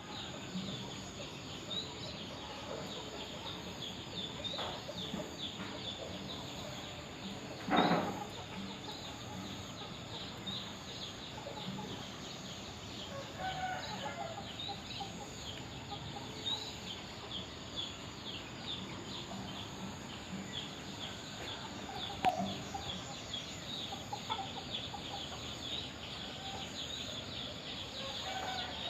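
Chickens clucking, with one loud short squawk about eight seconds in and another around twenty-two seconds. Dense high-pitched chirping runs underneath throughout.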